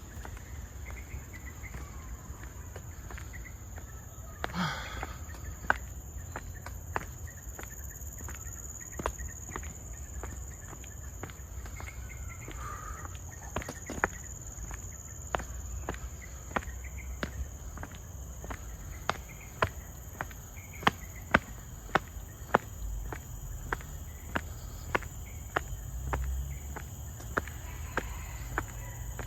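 Footsteps walking at a steady pace, sharp regular taps about two a second, over a steady high-pitched drone of insects.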